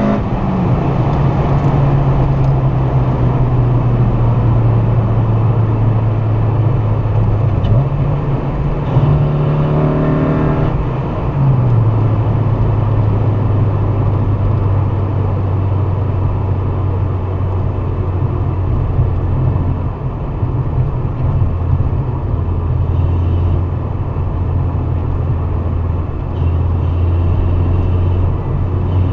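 Honda Civic Si's swapped-in K24A2 2.4-litre four-cylinder engine running steadily while driving. About eight seconds in, the engine note climbs for a few seconds, then drops back to a lower steady note shortly after eleven seconds.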